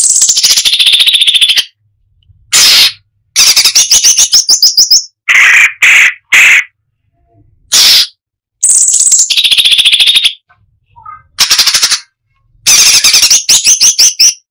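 Cucak cungkok (striated bulbul) singing in loud, separate phrases: fast rattling trills and high whistled notes that fall in pitch, with short pauses between phrases.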